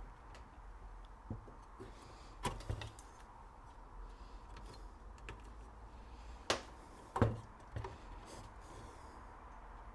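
A few scattered light clicks and knocks from handling things on the electronics workbench, over a faint steady background tone.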